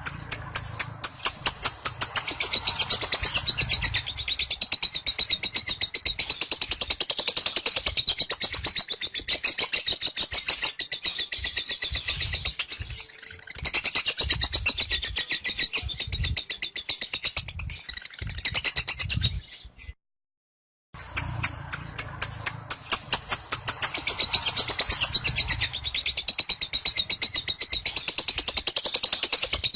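Lovebird singing its ngekek: a long unbroken run of rapid, high chattering notes, many per second. It stops abruptly about twenty seconds in and starts again a second later.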